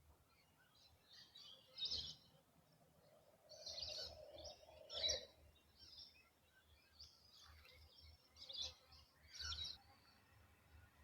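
Faint birdsong: several birds chirping in short, scattered high calls.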